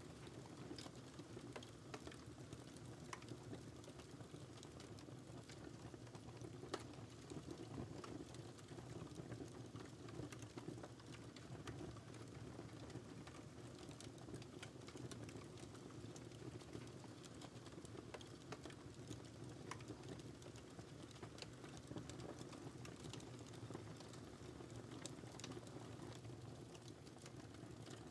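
Faint wood fire crackling in a fireplace: a steady low rumble of burning with irregular small pops and crackles throughout.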